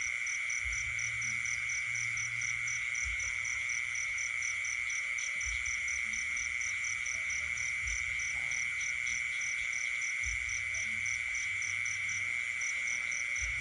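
Night chorus of frogs and insects: a steady, unbroken insect trill with a faster pulsed chirping above it, about four pulses a second, and frogs calling in the background.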